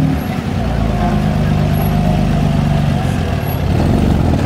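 Engine of a pre-war vintage car running steadily, close by.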